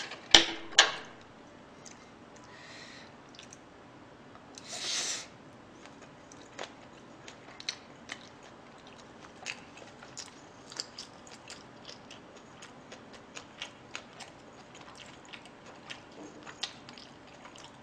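Close-up wet chewing and small mouth smacks of a person eating spicy pork fried rice, scattered soft clicks throughout. Two sharp clicks of eating utensils on the plate come just after the start, and a short breathy noise about five seconds in.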